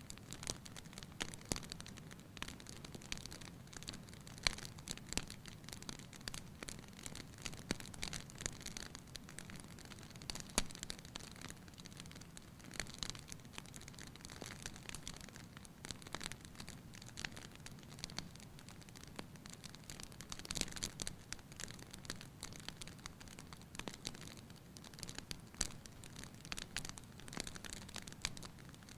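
Wood fire in a fireplace crackling, with irregular sharp pops and snaps over a soft steady rush.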